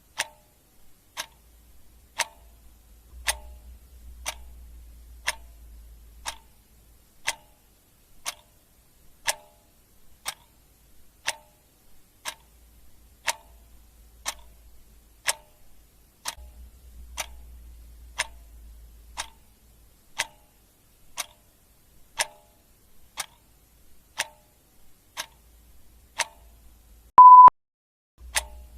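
Clock ticking sound effect: sharp, even ticks at about one a second. About a second before the end, a single short, loud beep.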